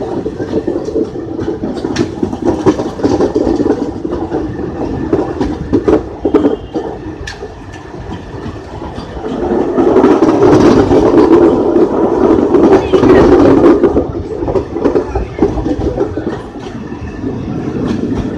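Chamundi Express passenger coaches running past on the next track, heard from alongside on another train: a steady rumble with rapid clickety-clack of wheels over rail joints, swelling louder for several seconds midway.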